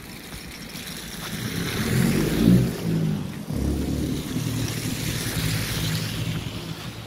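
A motor vehicle's engine close by, growing louder to a peak about two and a half seconds in, then running on steadily and easing off near the end.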